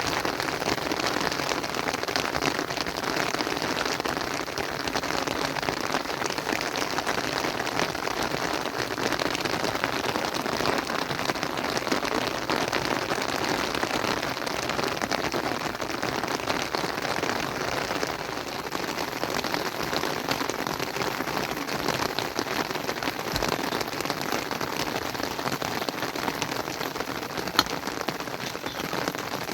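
Steady rain falling, a dense, even hiss of fine drop ticks, with one sharper click near the end.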